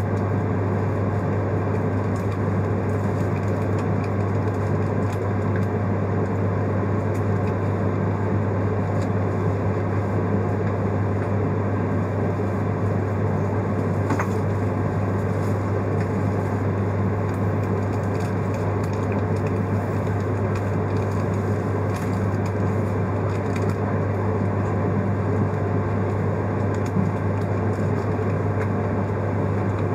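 Steady running noise inside the cabin of an E3-series Shinkansen train: an even low hum with a constant rumble and a few faint ticks.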